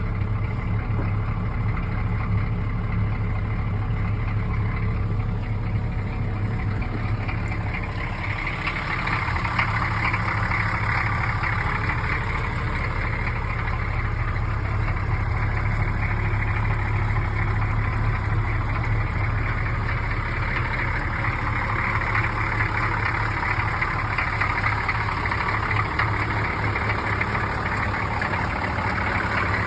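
1983 Chevrolet Blazer's 6.2-litre diesel V8 idling steadily just after a cold start; its sound grows a little fuller about eight seconds in.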